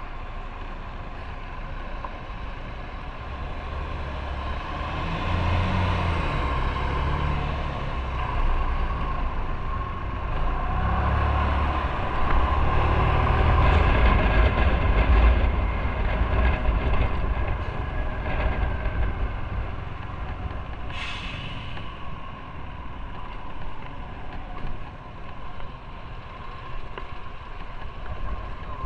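Motorcycle on the move in traffic: engine running with wind and road noise, its low note stepping up and down and loudest around the middle. A short hiss sounds about three quarters of the way through.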